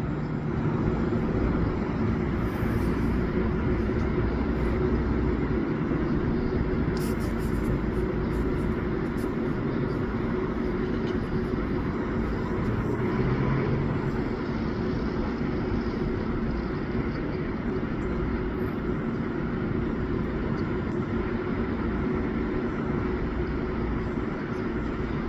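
A steady mechanical hum with a constant low drone, unchanging throughout.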